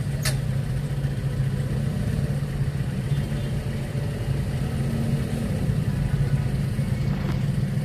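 Street traffic with vehicle engines running, a steady low hum over road rumble, and one sharp click about a quarter of a second in.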